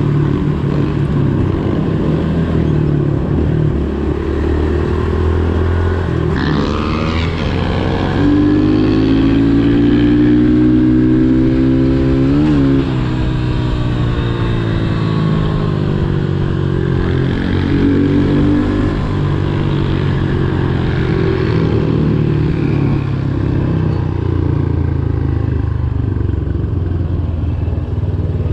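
Pit bike engines running steadily under way, with another pit bike passing close about twelve seconds in.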